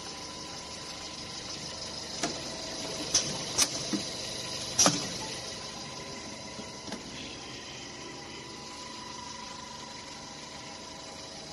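Automatic polishing machine for copper air-conditioner filters running with a steady mechanical hum and a thin steady whine. A handful of sharp clicks and knocks come between about two and five seconds in, and one fainter click comes near seven seconds.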